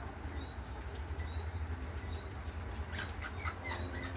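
Birds chirping with short, faint high calls, a few near the start and a cluster about three seconds in, over a steady low rumble.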